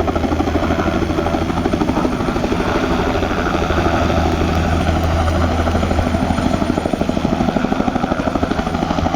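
Helicopter running close by, its rotor giving a fast, even beat over a steady low engine tone.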